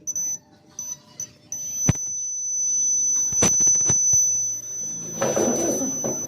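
A high-pitched electronic beep from a test instrument: several short beeps, then one steady tone held for almost five seconds. A few sharp clicks come in the middle, and a brief burst of rustling noise comes near the end.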